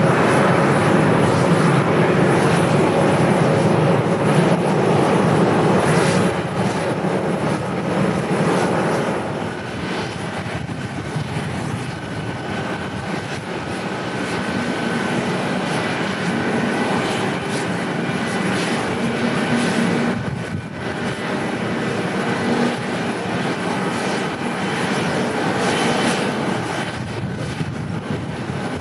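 Airliner's engines as it comes in to land, loudest for the first six seconds and then easing to a steady, lower noise with a faint whine.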